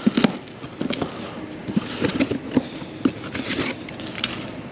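Packaging being handled while a charger is lifted out of its box: rustling and scraping with scattered light knocks.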